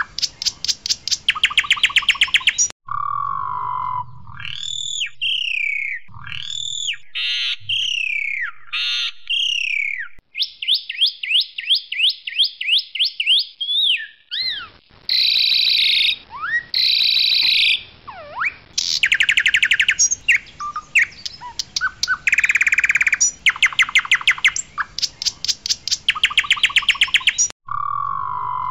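Asian pied starling (jalak suren putih) singing loudly: harsh rattling trains of about ten rapid notes a second alternate with clear whistled notes that swoop up and down, with a quick run of repeated chattering notes midway. The same song sequence starts over near the end.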